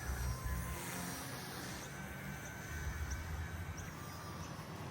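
Faint steady whine of a K110S micro RC helicopter's motor and rotors flying at a distance, over a low rumble of wind on the microphone.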